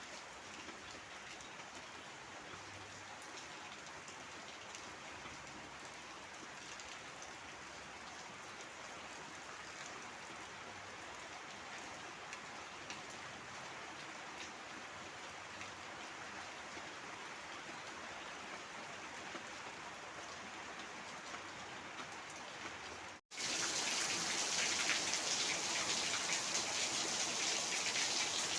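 Heavy rain falling steadily, a dense patter of drops. About 23 seconds in it cuts out for an instant and comes back louder and brighter.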